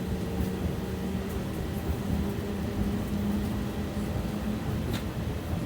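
BKM 60102 tram running between stops: a steady low rumble of wheels on rails with a hum from the traction drive, and a single click about five seconds in.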